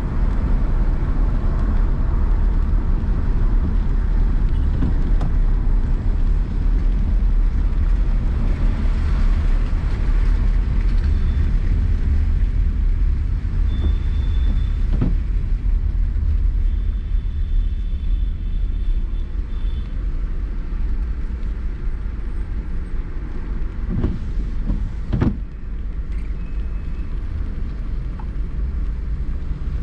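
Car driving in city traffic: a steady low rumble of engine and road noise, with a few sharp knocks, one near the middle and two close together later on.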